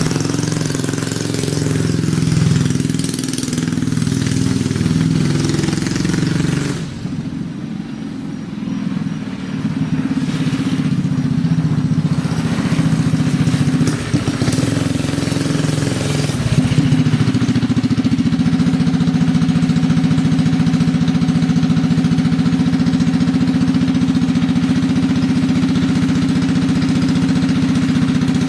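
Small engine of a home-built rat rod mini bike running, its speed shifting in the first half and then holding steady through the second half.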